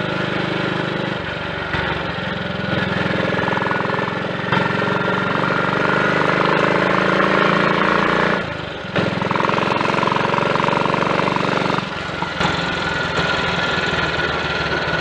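Triumph Tiger Cub's small single-cylinder four-stroke engine running under way with the choke still partly on. Its note steps up and down several times and briefly drops away just past halfway.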